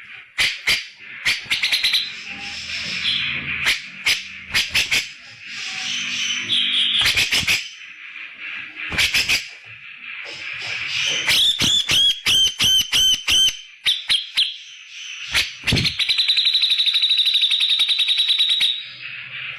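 Grey-cheeked bulbul (cucak jenggot) giving loud, harsh calls: sharp snapping notes and chatter, a run of quick downward-slurred notes about halfway through, and a fast rattling trill near the end.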